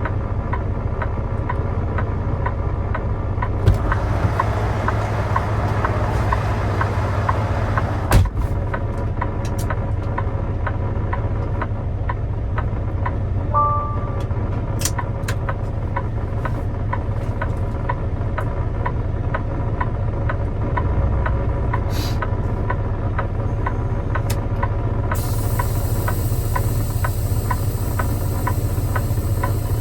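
Semi-truck engine running steadily, heard from inside the cab as a constant low rumble, with a couple of sharp knocks early on and a short beep about halfway through. A steady hiss joins the engine sound near the end.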